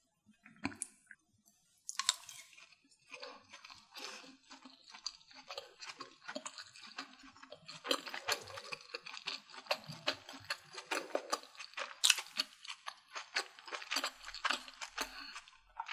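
Close chewing of Vietnamese sausage with the mouth closed: a quick run of small wet, crunchy clicks and smacks. It starts sparse and grows busier and louder about halfway through.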